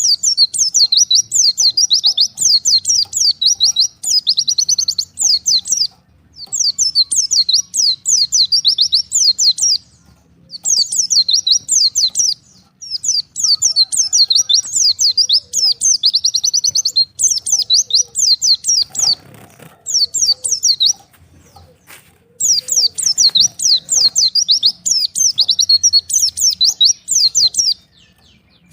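White-eye (pleci) singing: fast, high-pitched chirping phrases made of quick downward-sweeping notes, in bursts of a few seconds with short pauses between them. This is the bird's call to a rival separated from its flock.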